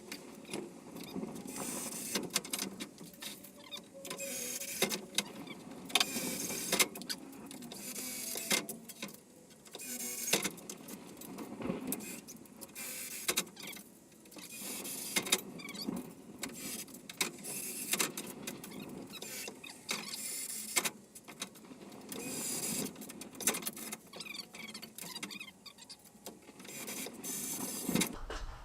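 Handheld electric drill running in repeated short bursts of a second or two, drilling holes in metal, with sharp clicks and knocks in between.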